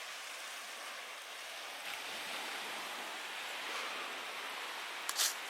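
Steady hiss of waves washing on a shore. A short, sharp scrape or rustle cuts in just before the end.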